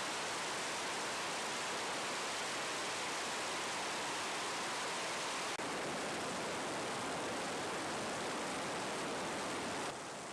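Steady, even rushing noise with no rhythm or tones, dropping a little in level near the end.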